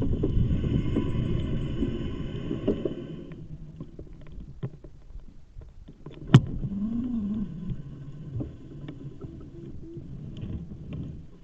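A motor vehicle going past, its sound fading away over the first few seconds. After that it is quieter, with a single sharp click about six seconds in.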